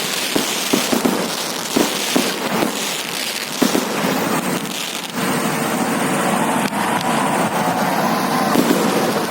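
Fireworks going off, with rapid popping and crackling for about the first five seconds. After that the pops thin out into a steadier din with a faint held tone.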